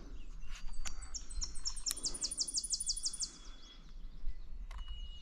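Wild songbirds singing, led by one bird's rapid series of about a dozen high, evenly spaced notes lasting about two seconds, over a steady low rumble.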